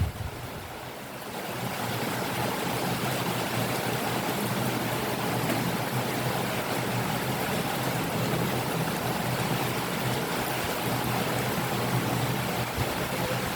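Rain falling steadily, an even rushing hiss. It dips briefly at the start and builds back within a couple of seconds.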